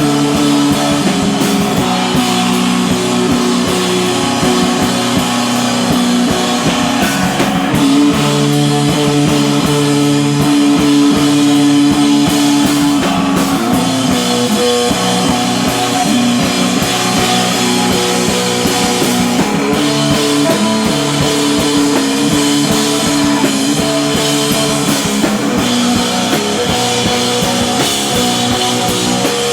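A rock band playing live: sustained distorted electric guitar chords over bass and a drum kit with steady cymbals.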